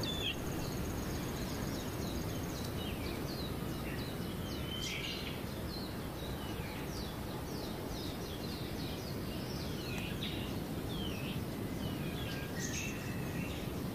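Bonin white-eyes chirping: many short, high calls, some as quick rising or falling sweeps, scattered over a steady background hiss.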